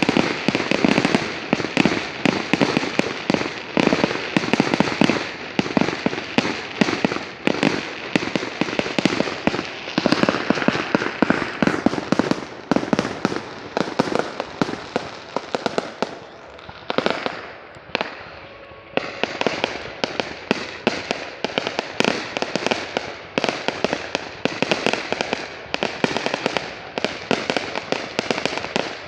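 Fireworks display: a dense barrage of rapid bangs and crackles. It thins out into a short lull about two-thirds of the way through, then resumes at full density.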